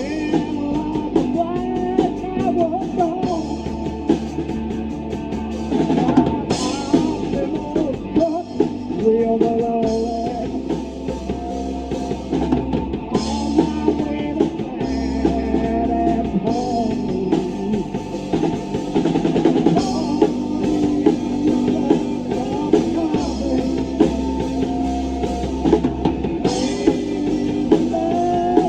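Rock band playing live: a drum kit with snare and bass drum, a bass holding low notes that change every second or two, and a wavering melodic line over them. Cymbal crashes come about six seconds in and again near the end.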